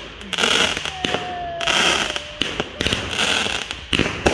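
Consumer aerial fireworks cake firing shot after shot, about one a second. Each shot is a hissing burst with sharp pops.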